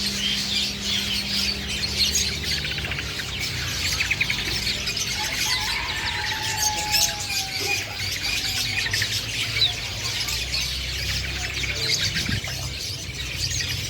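Long-tailed shrike (black-headed cendet) calling on and on with harsh, busy chatter and chirps, breaking into short fast trills about two seconds in and again near nine seconds.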